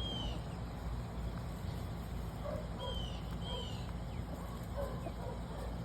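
A steady low outdoor rumble with a few short, falling bird chirps (at the start and twice around the middle) and faint soft clucking from free-ranging backyard chickens.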